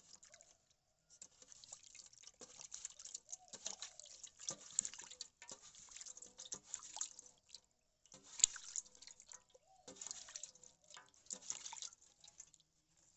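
Water splashing and dripping in irregular bursts as a zebra dove is dipped and washed by hand.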